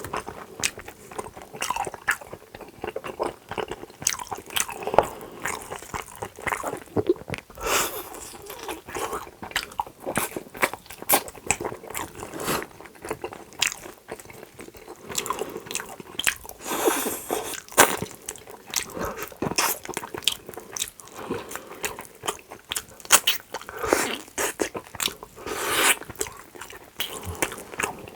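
Close-miked eating: a steady run of biting and chewing, with wet mouth clicks and crunches.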